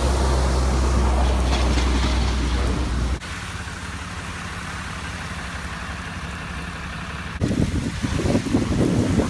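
Vehicle engines running, heard in three edited shots: a loud, steady low hum that cuts off about three seconds in, a quieter steady engine hum, and from about seven seconds a louder, rougher, uneven noise.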